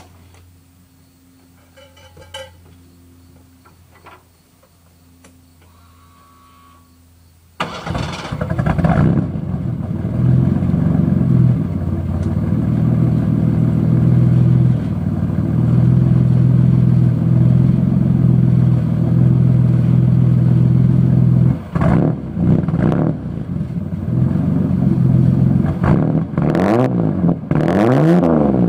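1986 Ford Ranger engine started about seven seconds in through a muffler-delete exhaust (stock catalytic converter, 2.5-inch pipe, resonator tip), which the owner says has a slight exhaust leak. It idles steadily, then is revved up and down several times near the end. Faint clicks come before the start.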